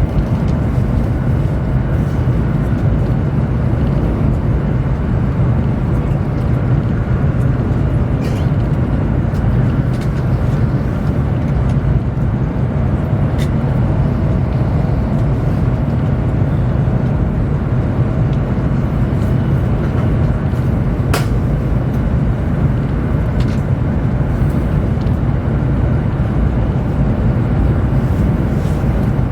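Steady low rumble and running noise heard inside a Chinese high-speed train travelling at speed, with a few faint clicks, one sharper about two-thirds of the way through.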